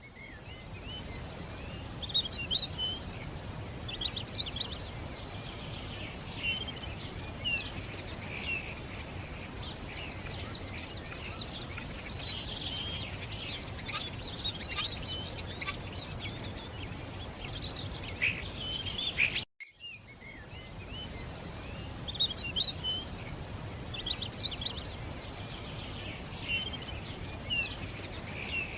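A flock of small birds chirping and twittering, many short overlapping calls, over a steady background hiss. The sound cuts out briefly about two-thirds of the way through, then the chirping resumes.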